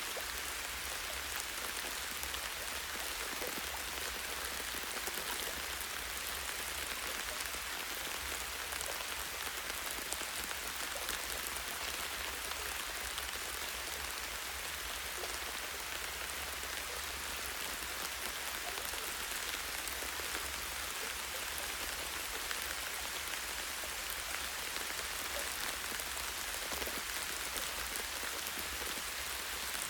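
Light rain falling steadily on forest foliage, a dense patter of small drops on leaves and branches, with a steady low rumble underneath.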